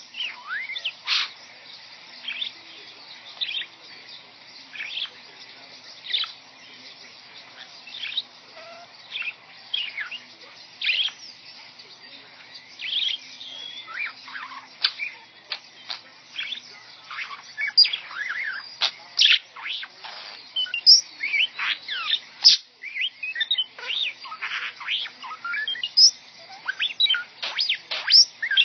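Pet bird chirping and whistling in quick up-and-down sweeping notes that sound like R2-D2's beeps, in irregular bursts that get busier in the second half.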